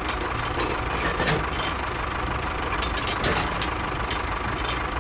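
Steady machine running noise with a constant whine and scattered clicks and knocks.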